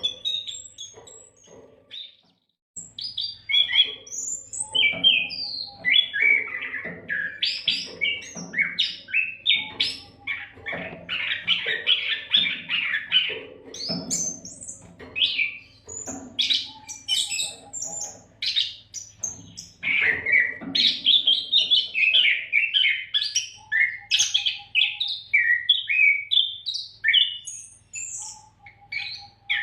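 Oriental magpie-robin (kacer) singing without a break: a fast, varied run of whistles, trills and chirps, with one short pause about two to three seconds in. A faint steady low hum lies underneath.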